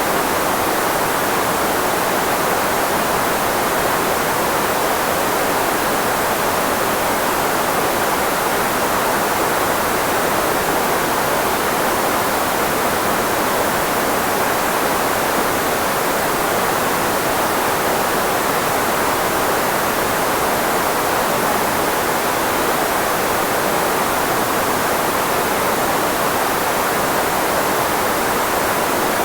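Steady filtered white noise shaped to mask the frequencies of the human voice, loudest in the midrange with little deep bass, unchanging throughout.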